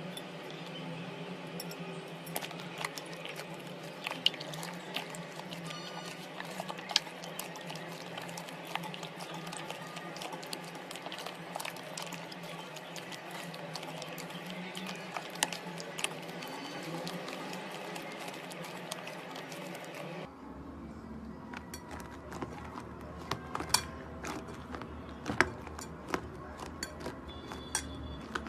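Slime being squeezed and worked by hand: a steady stream of small, sticky clicks and pops over a low hum. The background changes abruptly about twenty seconds in.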